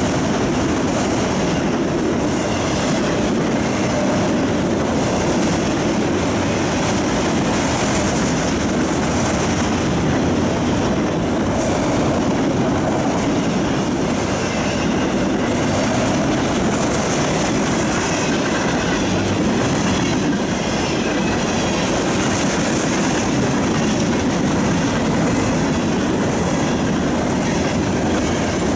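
Freight train of autorack cars and boxcars passing close by at speed, its steel wheels rolling over the rails in a steady whoosh.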